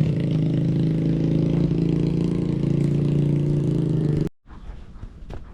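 Trailmaster 125 dirt bike's engine running at a steady speed, holding one even pitch, cut off abruptly about four seconds in. A few faint knocks follow.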